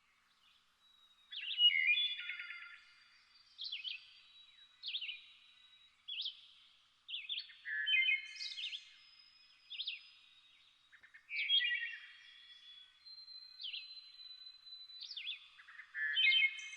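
Songbirds singing: short, high whistled and trilled phrases, repeating every second or two.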